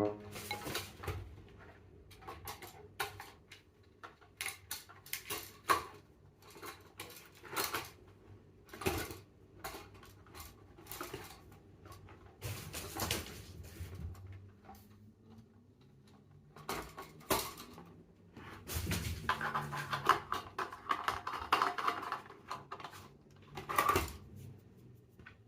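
Irregular light clinks, clicks and knocks of hard objects, like dishes or cutlery being handled, with a denser stretch of scraping and clattering near the end.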